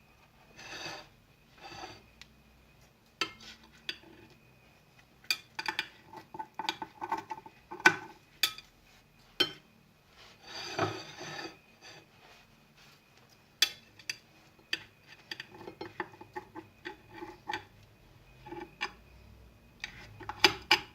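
Cutlery and dishes clinking and scraping: scattered sharp clicks and knocks, with a longer scrape about eleven seconds in.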